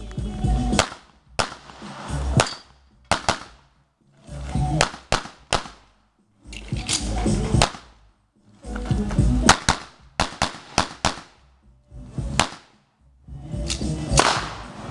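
A string of pistol shots from a single-stack 1911-style pistol, fired mostly in quick pairs and short runs as the shooter engages targets. Background music cuts in and out between the shots.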